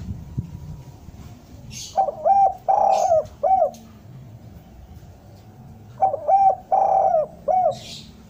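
Spotted dove (derkuku) cooing: two phrases of several short notes with a longer note in the middle, about four seconds apart.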